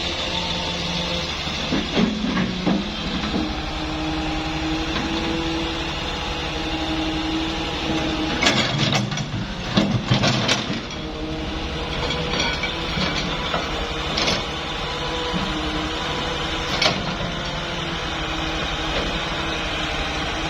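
Excavator engine running steadily, with several clanks and knocks from the machine's working, most of them in a cluster about halfway through.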